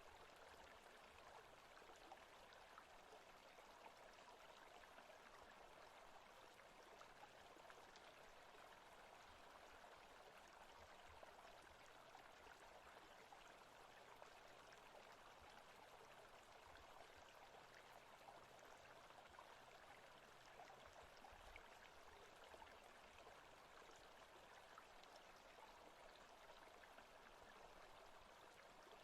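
Faint forest ambience track: a steady, even wash of noise like a running stream, with a few tiny ticks.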